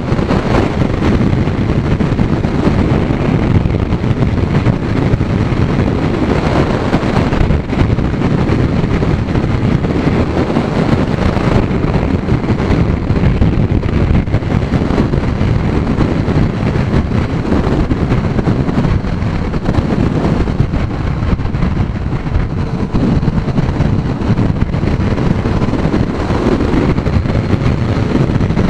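Heavy wind buffeting on the microphone of a Kawasaki Z900 riding at speed. The engine and road noise are running steadily underneath, with a faint engine pitch drifting up and down near the end.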